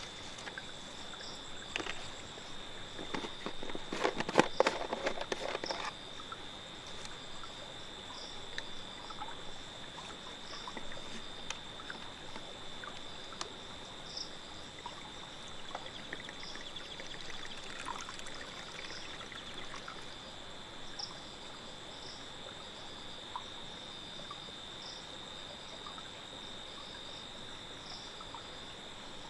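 Crickets trilling on one steady high note, with another caller chirping in short, evenly repeated pulses about once a second. A burst of crackling and rustling comes about three to six seconds in.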